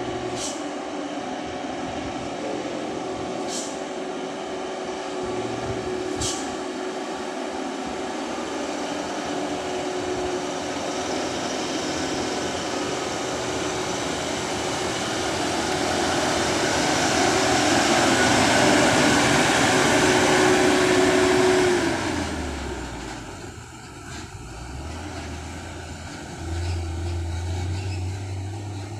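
A heavily loaded dump truck coming down a steep grade, its engine and tyre noise building to a peak about three quarters of the way through and then dropping off quickly as it passes. Brief sharp hisses come a few times near the start and once right at the end, and a lower engine hum from another vehicle follows.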